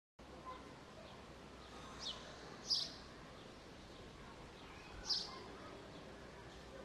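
A bird chirping: three short, falling chirps a few seconds apart over steady, faint outdoor background noise.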